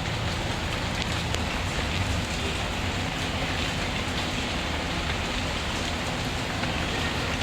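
Steady rain, with the occasional faint crackle of a wood fire.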